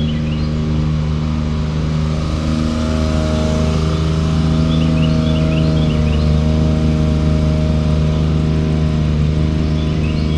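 A steady, loud, low droning hum made of several held tones, some of which shift about a third of the way in. Small birds chirp in short clusters near the start, about halfway and near the end.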